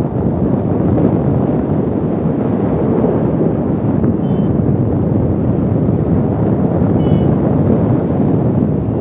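Strong wind buffeting the microphone, a loud, steady low rush. Two very short high beeps come through about four and seven seconds in.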